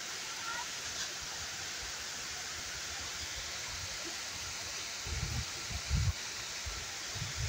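Waterfall rushing with an even, steady roar of falling water. From about five seconds in, irregular low rumbles come in on top.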